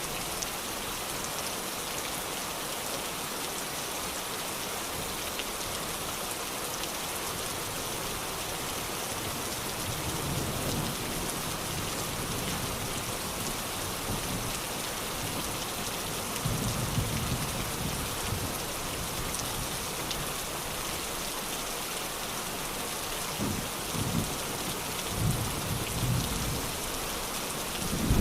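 Steady rain falling, an even hiss, with low rumbles of thunder rolling in about ten seconds in, again later, and louder near the end.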